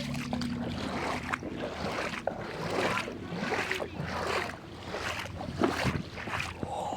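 Footsteps wading through shallow floodwater: a steady run of sloshing splashes, a little under two a second.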